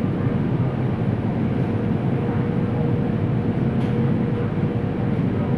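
Cabin noise inside a Shenzhen Metro CRRC Sifang Type A train under way: a steady rumble with a faint steady whine, and one brief click about two-thirds of the way through.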